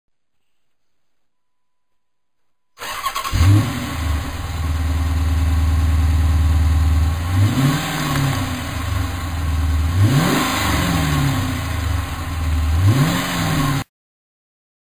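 2010 Dodge Challenger R/T's 5.7 L Hemi V8, breathing through Full Boar mufflers with the rest of the exhaust stock, fires up about three seconds in and settles into a steady idle. It is blipped three times, each rev rising and falling back to idle, and the sound cuts off suddenly near the end.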